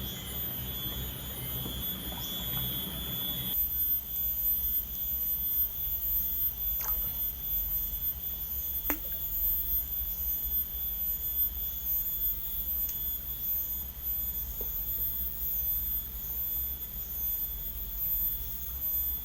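Insects in riverside forest: a steady high-pitched whine, with a second steady tone that stops about three and a half seconds in, and short chirps repeating about once a second over a low rumble.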